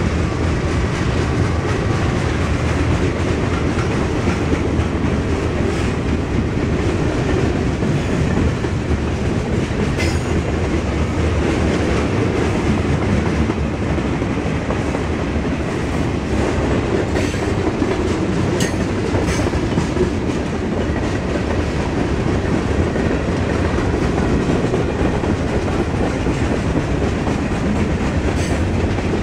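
Freight train's boxcars and covered hoppers rolling past: a steady rumble of steel wheels on rail, with a few sharp metallic clicks and clanks about ten seconds in, near twenty seconds and near the end.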